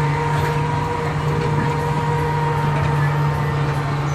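Steady mechanical hum of a children's ride car in motion, one even drone with a constant pitch that does not change.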